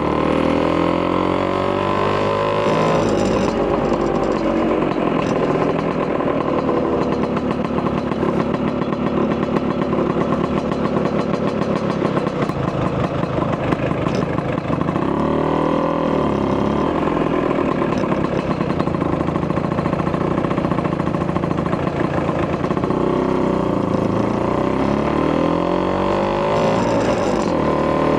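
Vespa PX200 FL2 scooter's 210cc single-cylinder two-stroke engine running through an expansion chamber exhaust while riding, its pitch falling and rising again near the start, midway and near the end.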